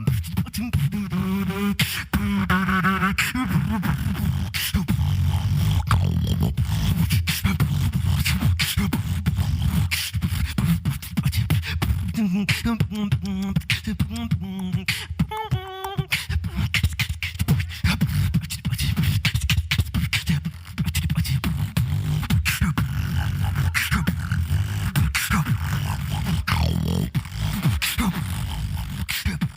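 Solo beatboxing: rapid clicks and snare-like hits over heavy bass, with warbling pitched vocal tones about a second in and again around the middle.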